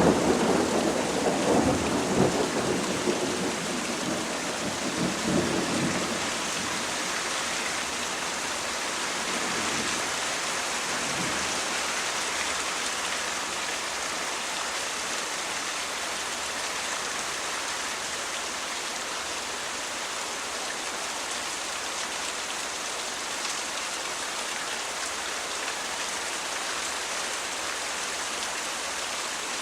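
Steady heavy rain falling, with a low thunder rumble that dies away over the first few seconds, leaving only the even hiss of the rain.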